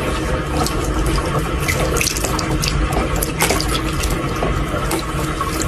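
Water running and splashing, with many small clicks and knocks through it.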